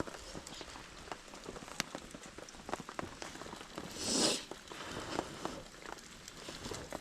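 Rain pattering, with many small irregular drop taps. About four seconds in there is one brief, louder rustling swish.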